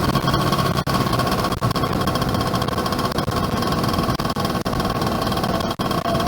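Yamaha F1ZR two-stroke motorcycle engine running steadily while riding, heard from the bike with road and wind noise. The sound cuts out for an instant a few times.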